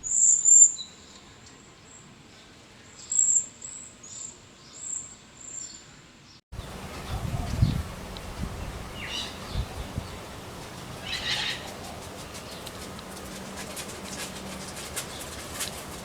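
Small birds giving short, very high chirps, about half a dozen over the first six seconds. Then a sudden change to a noisier outdoor background with a few low thumps and two brief bird calls.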